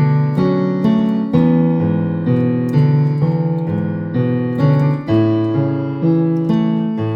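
Electronic keyboard in a piano sound playing a slow hymn accompaniment, sustained chords changing about every half second to second with a bass line underneath.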